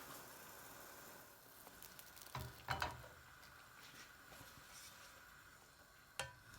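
Kitchen utensils clinking and knocking against cookware a few times, loudest twice in quick succession about three seconds in and once more near the end, over a faint steady hiss.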